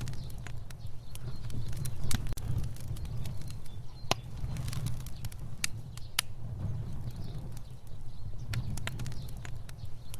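Fire burning: a steady low rumble of flame with irregular sharp crackles and pops scattered throughout.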